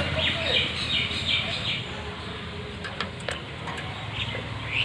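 Parrots chirping in a quick run of short, high calls, then a few sharp clicks and another call near the end, over a steady low background rumble.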